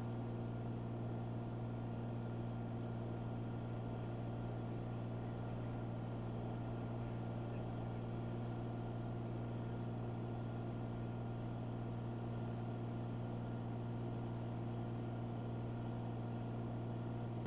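Cessna 182's piston engine and propeller running steadily in cruise, heard as an even drone with a strong low hum.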